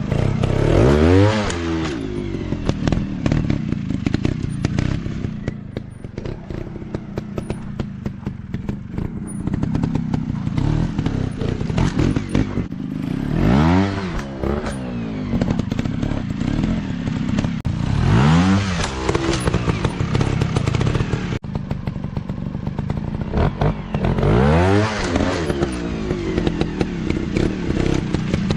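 Off-road motorcycle engines revving in bursts, their pitch sweeping up and falling back about four times (near the start, about halfway, about two-thirds through and near the end), with clattering and knocking throughout as the bikes ride over rough ground.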